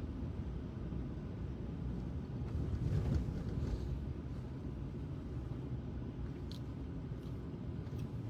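A car driving slowly through snow on an unplowed street, heard from inside the cabin: a steady low rumble of engine and tyres, swelling briefly about three seconds in.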